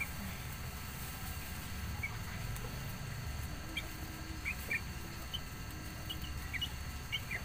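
Small birds giving short, high chirps, scattered a few per second at irregular moments, over a steady low rumble.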